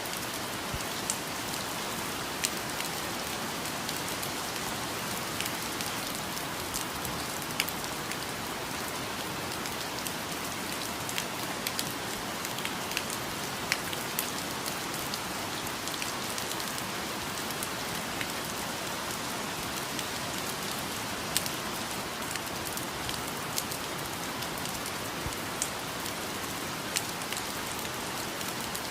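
Steady rainfall, a continuous hiss with many scattered sharp drips and drop impacts.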